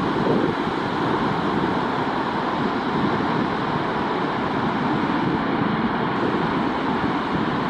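Steady rushing noise of wind on the microphone and surf breaking on a beach.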